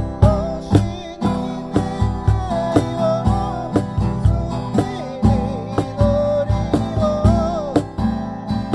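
Music: an acoustic guitar strummed in a steady rhythm, with a wavering melody line carried over it.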